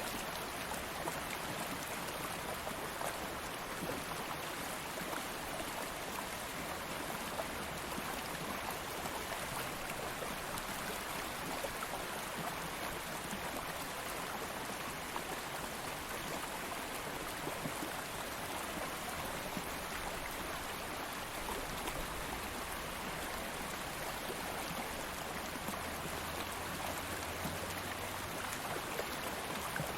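Stream of flowing water running steadily, an even rushing with small splashes and trickles.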